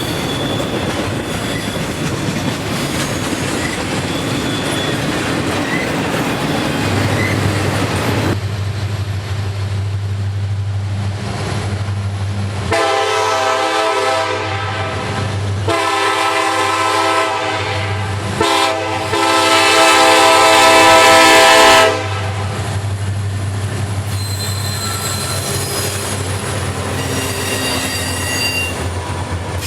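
Freight train rolling by with wheel squeal, then a diesel locomotive's air horn sounding three blasts over a steady low engine hum; the third blast is the longest and loudest.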